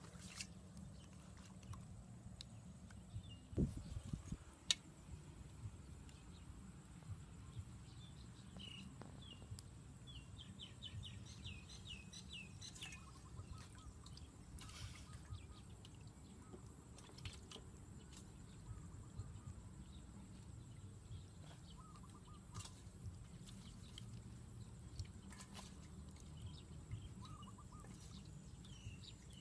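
Small birds chirping now and then over a faint steady low rumble, with a quick run of chirps about ten seconds in. Two sharp knocks about four seconds in are the loudest sounds.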